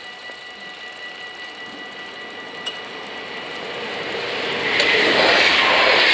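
Level-crossing warning bells ringing steadily, then the rising rush of an approaching NS VIRMm double-deck electric train, which becomes loud about five seconds in as it reaches and passes the crossing.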